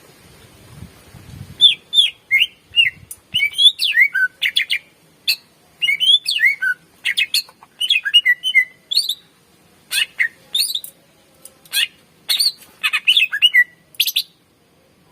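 Greater green leafbird (cucak ijo) singing a long, varied song of rapid whistles, sweeping slurs and sharp chips. It starts about a second and a half in and breaks off about a second before the end.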